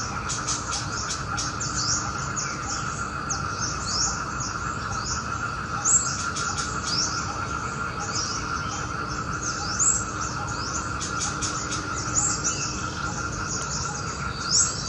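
Small birds chirping busily, many short high chirps a second, over a steady even hum.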